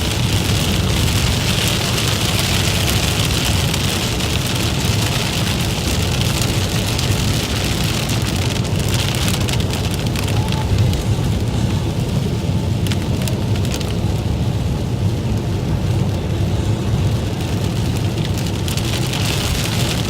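Rain falling steadily over a constant low rumble. The rain's hiss eases for several seconds in the middle and returns near the end.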